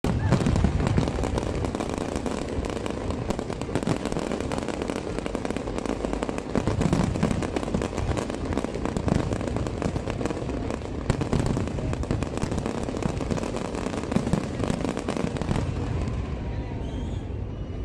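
Fireworks display: aerial shells bursting in quick succession, a dense, continuous run of bangs and crackling that thins out a little near the end.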